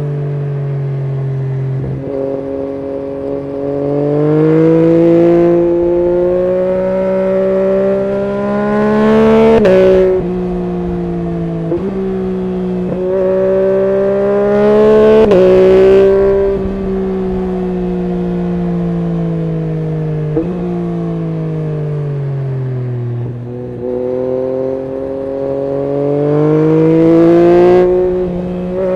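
Yamaha MT-09 SP's three-cylinder engine through an Akrapovic full exhaust system, accelerating hard. The pitch climbs and drops sharply at each upshift, several times. In the middle it winds down with falling pitch, then climbs again near the end.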